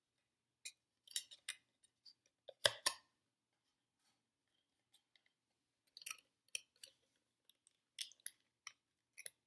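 Irregular small clicks, scrapes and crinkles of hands twisting thin wire ends onto a popsicle stick. The loudest clatter comes about two and a half seconds in, and another cluster comes near the end.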